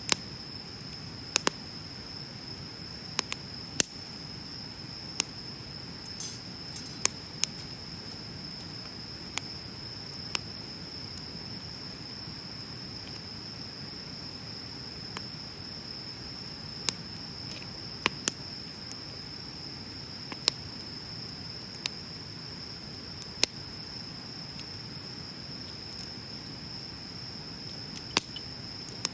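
Wood bonfire crackling, with sharp pops at irregular intervals over a low steady rush of flame. Throughout, an insect trills on one steady high pitch.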